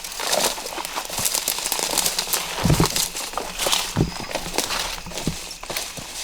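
Footsteps crunching through dry leaf litter and brush, irregular crackling with a few heavier thuds.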